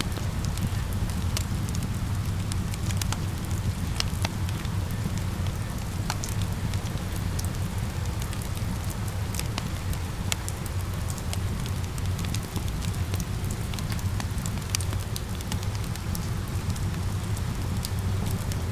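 Wood fire crackling with many sharp, irregular pops over a steady wash of falling rain and a low rumble.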